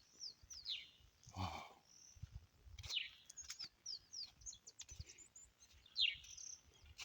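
Small birds calling: repeated quick chirps that slide downward in pitch, mixed with short high twittering notes.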